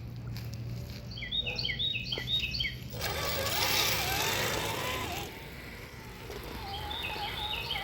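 Electric motor and geared drivetrain of an RC rock crawler whining, its pitch wavering up and down as it creeps over the course, with a steady low hum underneath. A small bird sings a quick repeated trill twice, once about a second in and again near the end.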